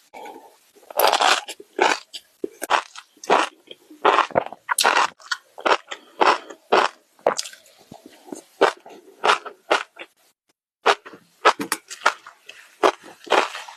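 Close-up crunchy chewing and biting of food, irregular crunches one or two a second, with a short pause about ten seconds in.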